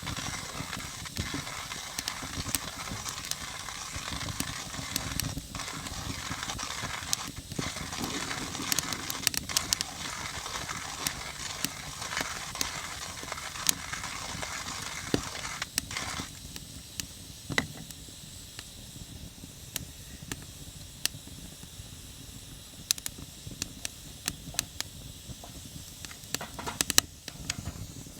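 Coffee beans being ground in a coffee grinder, a dense rough grinding noise that stops about halfway through. Sharp scattered pops from a crackling wood fire run throughout.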